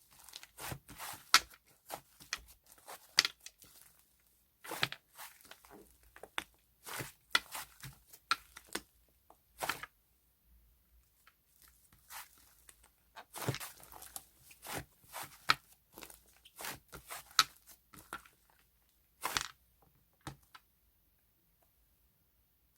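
Irregular clusters of short, sharp crunching and tearing noises from something being worked by hand, with brief pauses between them.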